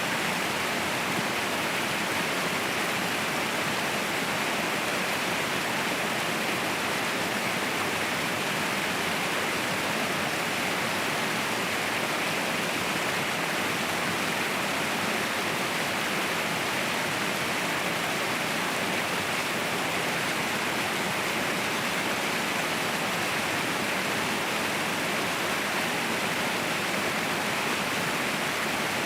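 Waterfall: a steady, unbroken rush of falling water, even throughout with no separate splashes or changes.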